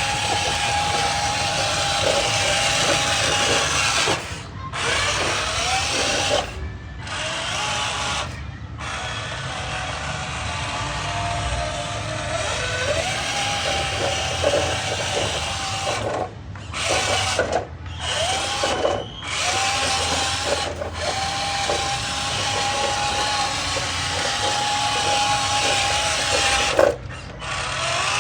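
Electric drive motor and gearbox of a radio-controlled Scania truck whining as it drives. The whine glides up in pitch each time it starts off, and the sound cuts out abruptly several times.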